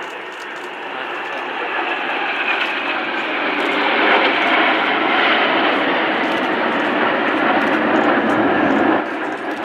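Jet aircraft flying past at an airshow, a loud engine roar that swells over the first few seconds, holds, then drops off abruptly near the end.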